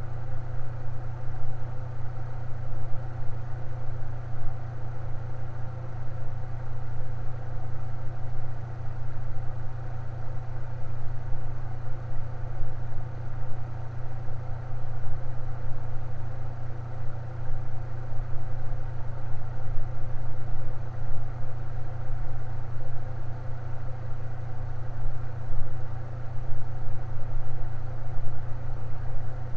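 Electric fan running steadily: an even low hum with fainter steady tones above it.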